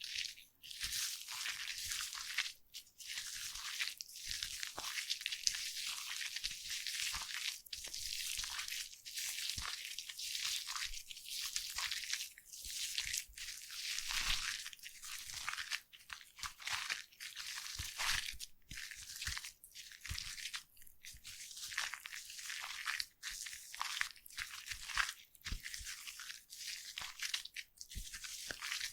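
Foam crackling and fizzing: a dense, high-pitched crackle of countless tiny bubbles popping, dotted with small clicks.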